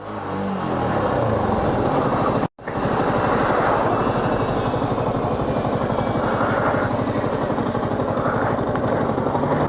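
Motorcycle engine running on the move, its pitch rising as it speeds up in the first second or so, mixed with steady wind rush. The sound cuts out briefly about two and a half seconds in.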